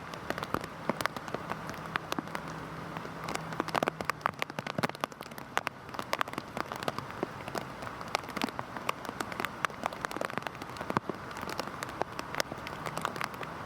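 Heavy rain falling on a surface: a steady hiss with a dense, irregular patter of individual drops ticking sharply throughout.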